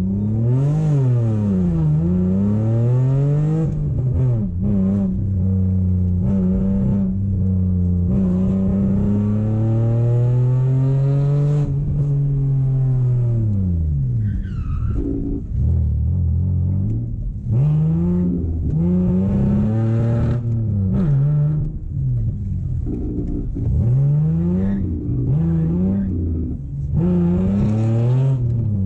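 BMW E30's engine heard from inside the car, revving up hard from a standing start and shifting up through the gears. The revs rise and then fall away steeply about twelve seconds in as the car slows. After that comes a run of short bursts of throttle, the revs rising and dropping again and again.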